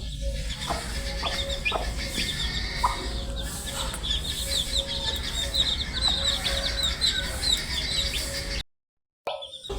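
Many baby chicks peeping together: a dense, continuous run of short, high chirps that drop in pitch. The sound cuts out completely for about half a second near the end, then starts again.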